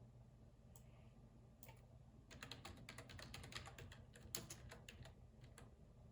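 Computer keyboard typing: a couple of single key taps, then a quick run of keystrokes lasting about three seconds that stops shortly before the end.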